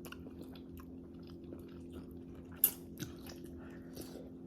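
Close-up chewing and wet mouth clicks of someone eating, with one sharper click a little past halfway.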